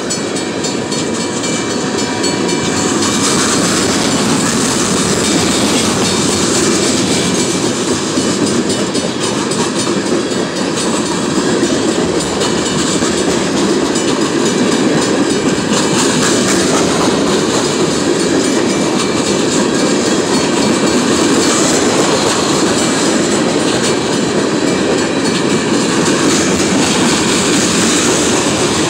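Freight cars of a passing manifest train rolling by close at speed: a loud, steady rumble of steel wheels running over the rails.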